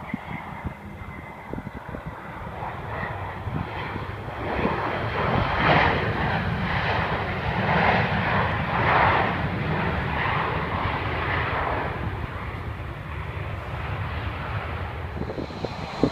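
Jet airliner's engines passing by: the roar builds, is loudest in the middle, then fades away.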